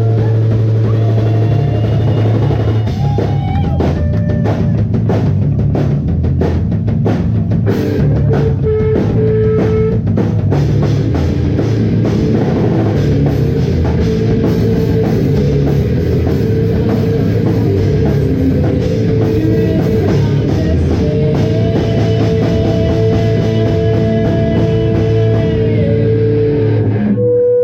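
Rock band playing live: drum kit, guitar and bass together, loud and dense, the music cutting off just before the end.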